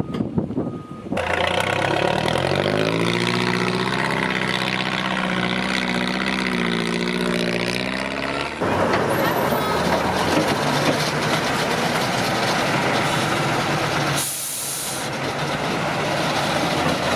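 Heavy off-road truck's diesel engine revving up and labouring under load, its pitch rising and then wavering. It gives way to a loud rushing noise with no clear pitch, and about fourteen seconds in there is a short sharp hiss of air from the air brakes.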